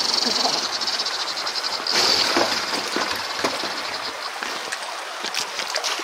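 Large electric RC 6x6 truck crawling through a creek: running water and a steady high hiss, with scattered knocks and clicks as it works over rocks, and a louder rush about two seconds in.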